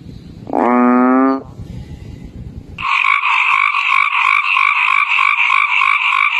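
Frogs croaking: one long pitched croak about half a second in, then from about three seconds a fast, steady run of rapidly repeated croaks.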